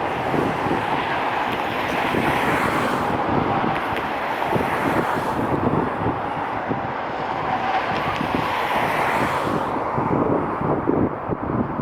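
Wind buffeting the microphone over a steady outdoor rumble.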